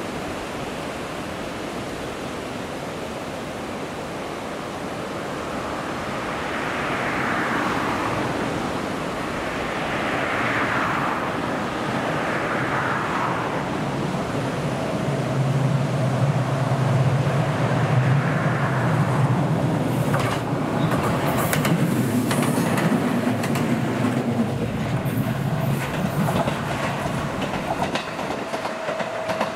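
A JR West 227 series two-car electric train approaching, its running noise growing louder as it nears. About two-thirds of the way in, a run of sharp clicks comes as the wheels pass over rail joints. Early on there is a steady rushing with repeated swells, which fits waves washing on the shore.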